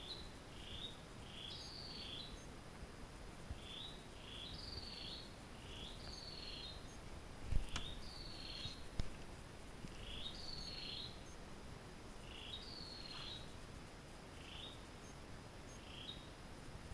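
A rainforest bird singing a short phrase over and over, about every two seconds: a few quick notes and a longer falling whistle, over a low steady background noise. Two dull thumps come a little past the middle.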